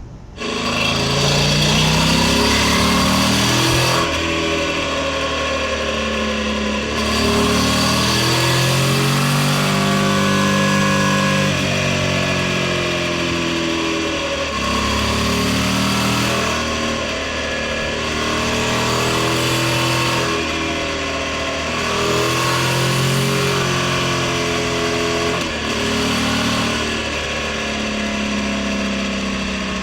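BMW F900XR's parallel-twin engine with its stock Euro 5 exhaust, heard onboard while riding. The engine note rises and falls several times over a steady haze of wind, gearbox, chain and tyre noise. The exhaust sounds subdued enough to blend into that drivetrain and rolling noise, the odd mix the rider dislikes.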